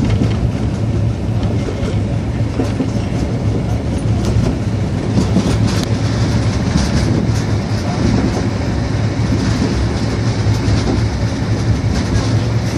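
Passenger train running along the track, heard through an open carriage window: a steady rumble of wheels on rail with a few scattered clicks.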